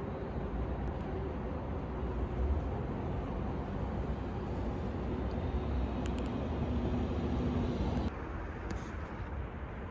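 Steady outdoor street noise with a low traffic rumble and a faint engine hum. The sound changes abruptly about eight seconds in.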